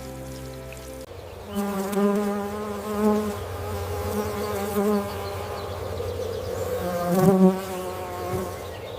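A flying insect buzzing with a wavering pitch that swells and fades, loudest about seven seconds in.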